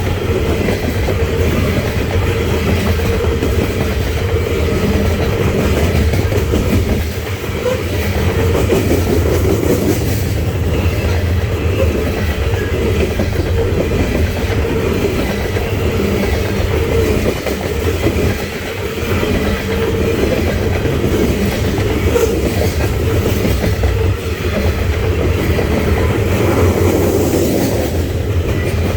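Freight cars of a coal train rolling past, a continuous loud rumble with clickety-clack from the wheels over the rails, briefly easing a few times.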